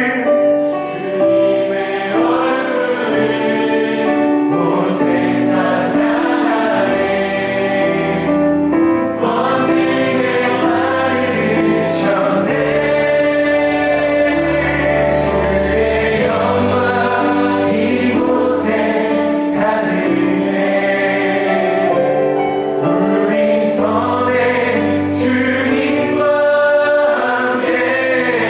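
Live contemporary Christian worship music: a band with keys, drums, bass and electric guitars accompanying vocalists and a singing congregation. Sustained chords and sung lines run throughout, with cymbal hits on the beats.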